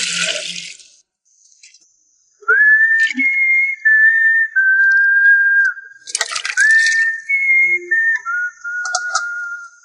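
A whistled tune: clear, pure held notes stepping up and down, with a short rush of running water at the start and another about six seconds in.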